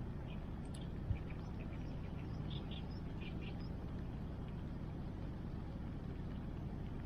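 Steady rushing of the river and rain around a wood bonfire, with a few faint crackles from the fire in the first half and a single soft low thump about a second in.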